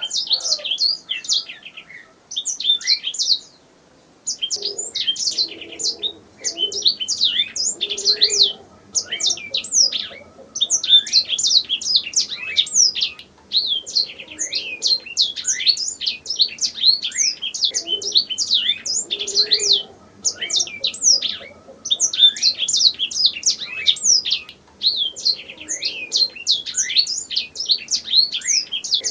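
Domestic canary singing: long phrases of rapid, repeated sweeping notes and trills, broken by brief pauses every few seconds.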